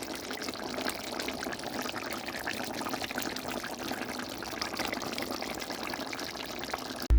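Steady watery hissing with faint crackles, which cuts off abruptly near the end.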